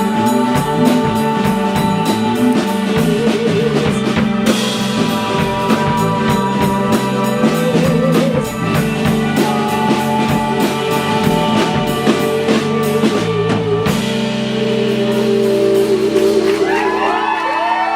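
Live band with female vocals, drum kit and guitar playing to the end of a song: the drums keep a steady beat until about three-quarters of the way through, then stop and the last chord rings out. A few whoops from the audience rise over the ringing chord near the end.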